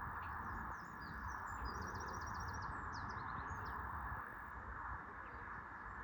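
A small songbird singing one high phrase of varied chirps with a quick run of repeated notes in the middle, ending a little under four seconds in, over a steady hiss and a low rumble.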